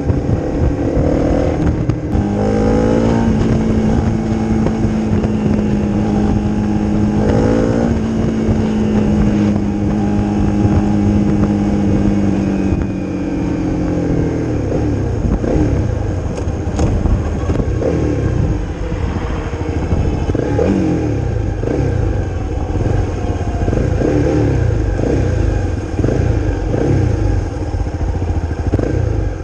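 Honda CRF250's single-cylinder engine through a Leo Vince aftermarket exhaust under way: it accelerates up through the gears with shifts about two and seven seconds in, and holds steady revs for several seconds. From about halfway, the revs rise and fall repeatedly at lower speed.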